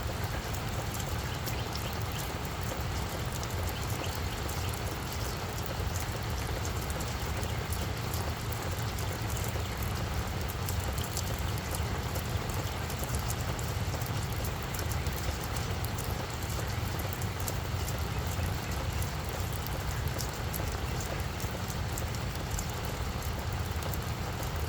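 Steady rain falling on a flower bed, with many small, sharp drop ticks over a continuous hiss and a steady low rumble underneath.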